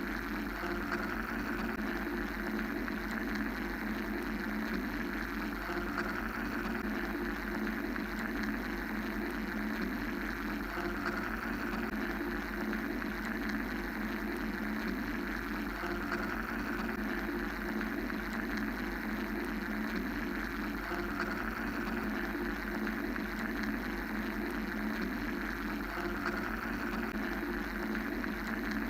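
Steady machine-like white noise: an even hum-and-hiss drone with a low rumble beneath, its mid range swelling gently every five seconds or so.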